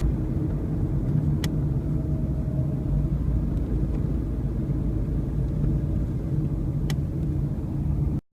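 Steady low rumble of wind buffeting the microphone, with two faint ticks, one about a second and a half in and one near the end; it cuts off suddenly just before the end.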